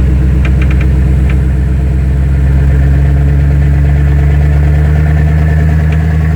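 Engine of a two-wheel-drive Chevy held at a steady, raised speed as the vehicle backs through mud. A few light ticks sound about half a second to a second in.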